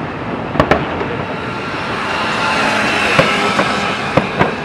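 Fireworks going off: two sharp bangs about half a second in, then a swelling mass of crackle and hiss that peaks about three seconds in, with more scattered bangs near the end.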